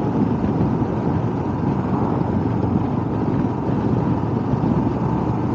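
Motorcycle riding along at steady road speed, its engine and the wind rushing past blending into a constant noise, picked up by the rider's wireless microphone.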